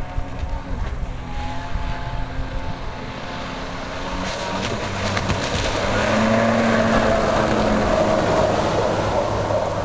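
1993 Kawasaki 750SX stand-up jet ski's two-stroke twin running at speed on the water, growing louder about halfway through as it passes close, then dropping off near the end.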